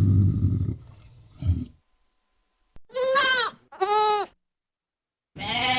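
Bleating livestock: two short bleats about a second apart, then a longer bleat starting near the end. Before them, a low rumbling sound cuts off under a second in, and a brief low grunt follows.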